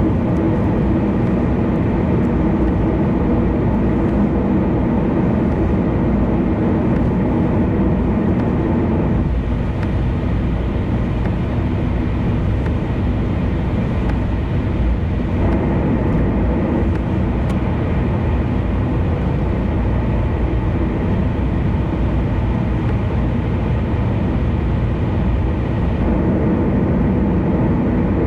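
Car driving at expressway speed: steady tyre, road and engine noise. For several seconds starting about a third of the way in, the higher part of the noise drops away, then returns.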